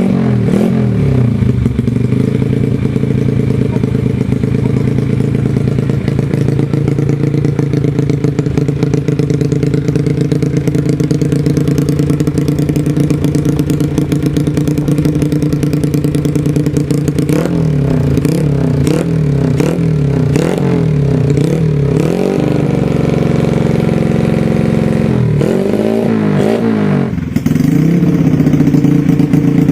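Yamaha Jupiter Z's four-stroke single-cylinder engine idling through a loud aftermarket exhaust, with a run of quick throttle blips about two-thirds of the way in and another short burst of revs shortly after. Near the end the sound changes abruptly and settles into a louder idle.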